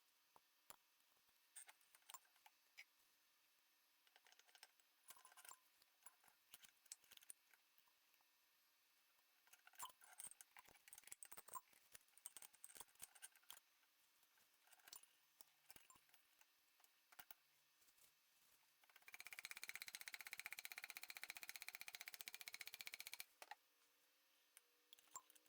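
Small metal parts and tools clinking and clicking as they are handled during reassembly, followed near the end by a steady buzzing sound for about four seconds that stops abruptly.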